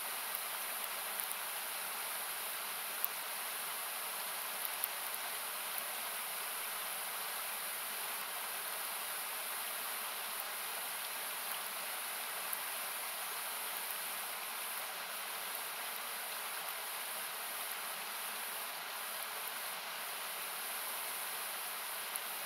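Steady hiss of a rushing mountain river or small waterfall, thinned by equalizer so that it sounds like noise. Over it, a wood campfire gives a few faint, sharp crackles and pops, clearest about three seconds in and again near five seconds.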